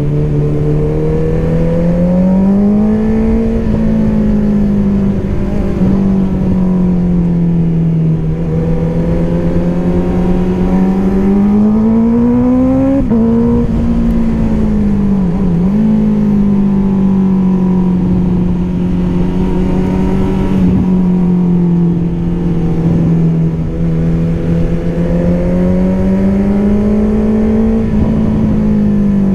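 Honda CBR650R's inline-four engine through an Akrapovic exhaust, running on the move, its revs rising and easing back in slow swells, with wind rushing over the microphone.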